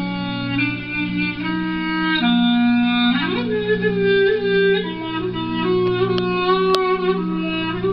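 Clarinet playing a Turkish-style melody over a steady low held accompaniment, with a quick upward slide about three seconds in.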